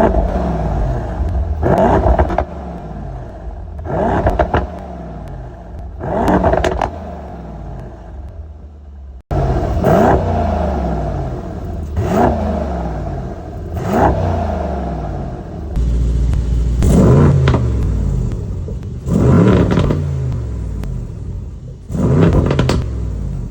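2018 Mercedes-AMG E63 S wagon's twin-turbo V8 free-revved in short blips about every two seconds, the pitch rising sharply and falling back to idle each time. About nine seconds in the sound cuts to a second recording of the same blips, one held a little longer near the middle, in a stock versus Meisterschaft exhaust comparison.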